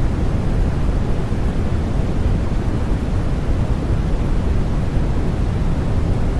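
Steady white noise for infant sleep: a deep, even noise with most of its energy low and little hiss, unchanging throughout.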